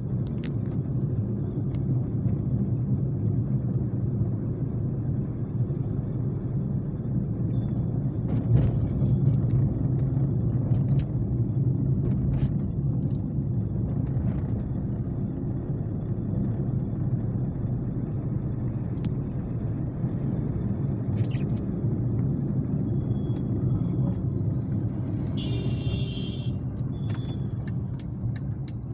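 A car driving: a steady low rumble of engine and road noise, with a few light clicks.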